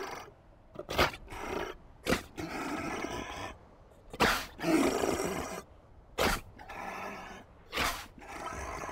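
Seals calling: a series of about six throaty calls, each about a second long, with short pauses between them.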